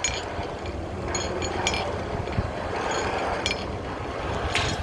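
A few light metallic clinks of steel striking steel, short and ringing, scattered over a steady low rumble.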